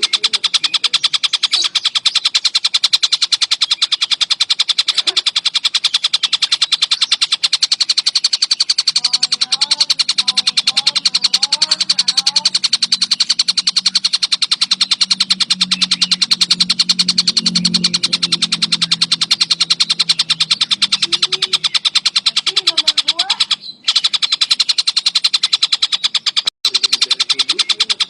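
Songbird training recording: a loud, rapid, very even trilling song that runs on continuously, with short gliding calls mixed in around a third of the way through.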